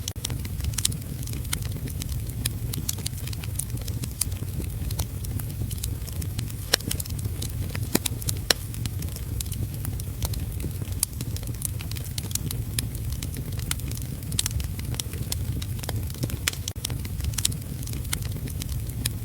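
Wood fire crackling in a fireplace, with sharp irregular pops and snaps over a steady low rumble; heavy rain may also be blended into the low rumble, as the video's description promises.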